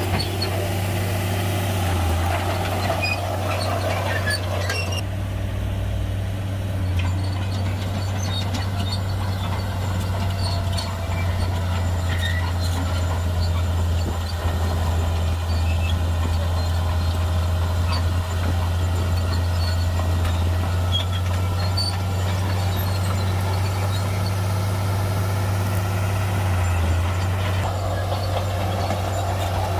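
Shantui crawler bulldozer's diesel engine running steadily as it works, with a deep, constant drone. The higher-pitched mechanical noise drops away about five seconds in and comes back near the end.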